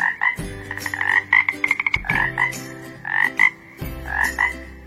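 Frog croaking in short repeated calls, about one pair a second, some broken into a fast rattle, over steady low background music tones.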